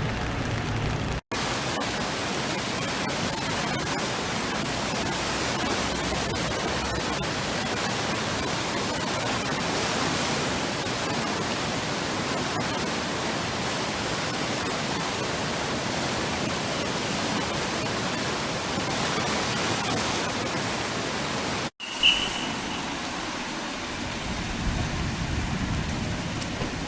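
Steady, even rushing noise of heavy typhoon rain and running water. It breaks off abruptly twice; after the second break it is quieter, with a brief high tone just after.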